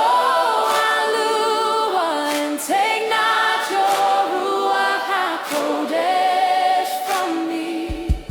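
Choir singing long, held wordless notes with vibrato in harmony, with little else beneath them. Near the end a low, pulsing bass beat comes in.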